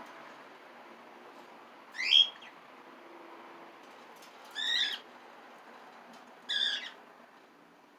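Cockatiel giving repeated loud contact calls, three short whistled calls about two seconds apart, the first rising in pitch and the loudest.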